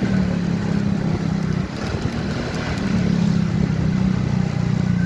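Motorcycle engine running at a steady pace while riding, its note easing briefly about two seconds in and then picking up again, with road and wind noise.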